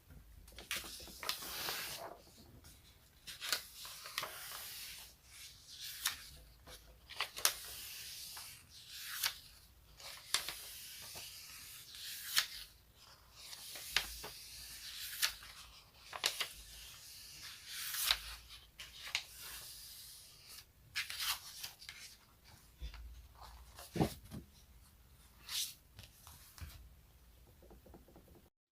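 Something sticky being peeled apart over and over for ASMR: a crackly tearing sound with sharp snaps about once a second, stopping abruptly near the end.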